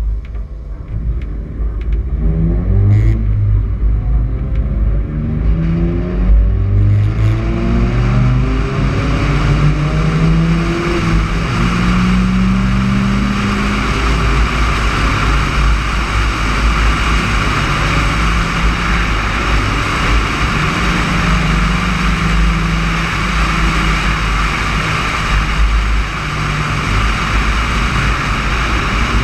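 Car engine accelerating hard from a standstill, its revs climbing and dropping back with each of several upshifts, then settling into steady cruising with road and wind noise.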